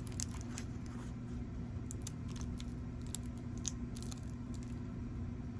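Faint light clicks and rustles of a boxed soap bar being handled and turned over, scattered irregularly over a steady low electrical hum.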